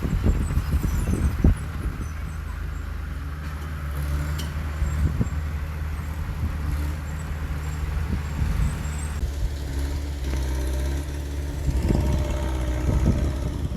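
Heavy diesel earthmoving machinery running steadily, with irregular knocks and clanks. A higher-pitched whine joins the engine in the last few seconds.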